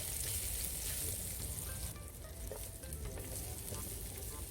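Onion frying in hot oil in a frying pan, a steady sizzle that is brighter and hissier for the first couple of seconds, then settles a little.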